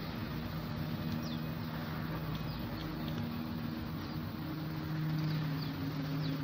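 Birds chirping in short, high, falling notes, scattered through, over a steady low hum.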